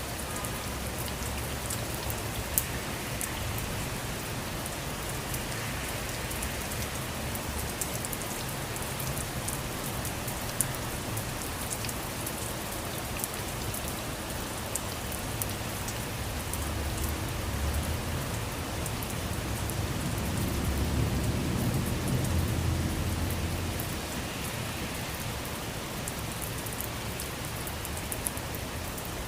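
Steady rain falling on surfaces, with many small drop ticks. A low rumble swells and fades about twenty seconds in.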